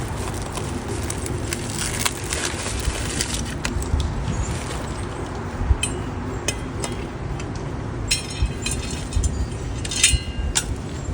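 Scattered light clicks and metallic clinks of bird-feeder hardware being handled during refilling, with a few brief ringing clinks over a low rumble.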